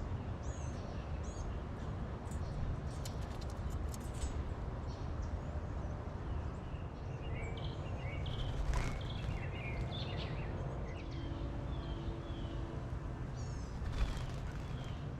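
Steady low outdoor background rumble with scattered short bird chirps and calls. There is a sharp knock about nine seconds in and another near the end.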